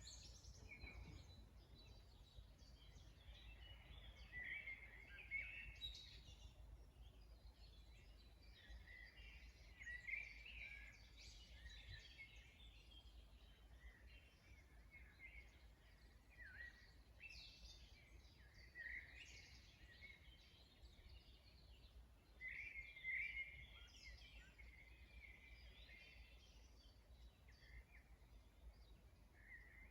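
Faint spring birdsong: several birds singing short chirping phrases, coming again every few seconds, over a low steady background rumble.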